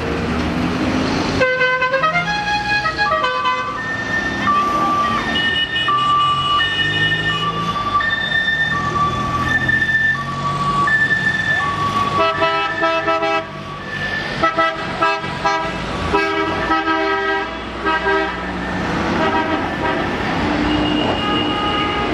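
Car horns sounding over and over: a short run of stepped notes, then two notes alternating steadily like a two-tone horn, then several tones together changing pitch, like a melody-playing horn.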